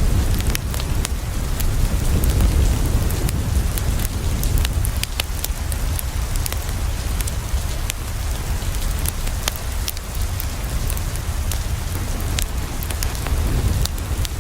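Steady rain falling on a window, with a deep low rumble underneath and frequent scattered sharp clicks and pops from a crackling wood fire.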